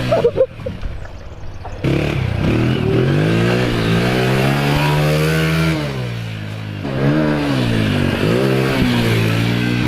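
Honda TRX 90 quad's small single-cylinder four-stroke engine, revving up and down repeatedly as it is ridden around a dirt track. It dips away with a brief clatter near the start, then picks up again about two seconds in.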